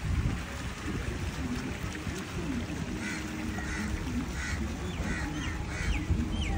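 Birds calling, with a run of short repeated chirps starting about three seconds in, over a low rumble of wind on the microphone.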